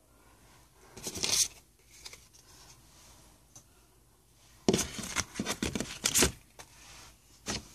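Handling of a foil trading-card pack wrapper: a brief crinkle about a second in, then a run of short, sharp crinkling and tearing sounds about five seconds in, and one more near the end.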